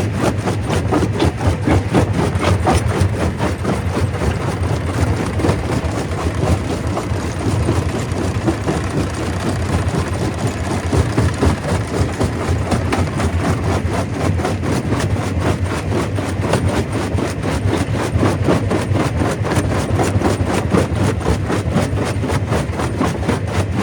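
Stone crusher machinery running steadily, with a dense, continuous clatter of rock being broken over a low machine drone.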